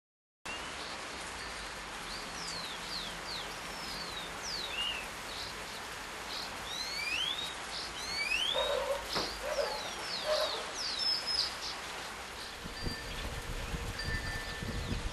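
Many birds calling with quick rising and falling whistles over a steady hiss of rain. A low rumbling noise builds near the end.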